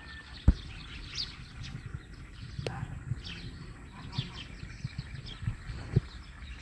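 Birds chirping: scattered short, high chirps over soft rural background noise, with a sharp knock about half a second in and a few soft low thumps.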